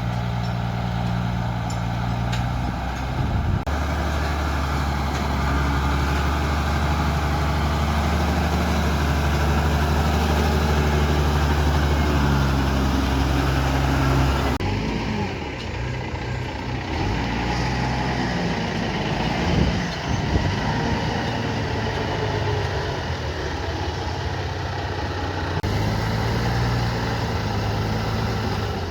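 Heavy engine of construction machinery running with a steady low drone that changes abruptly about four seconds in, around halfway through and near the end, with a few knocks in the second half.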